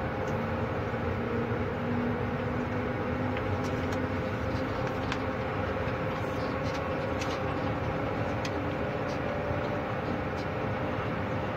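Locomotive running along the line, heard from inside the driver's cab: a steady running noise with a couple of steady tones and scattered light clicks.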